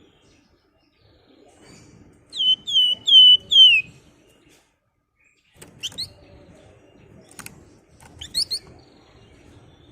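Flamboyan songbird calling: a quick run of four loud whistled notes, each dropping then holding its pitch, then after a pause a few short, sharp rising chirps.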